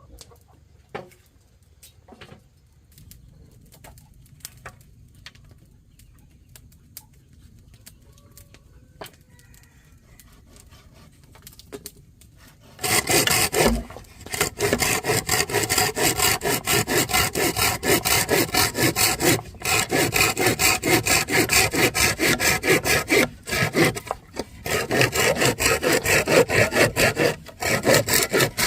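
A few faint knocks, then about halfway through a hand saw starts cutting through wood with fast, even back-and-forth strokes, stopping briefly a few times.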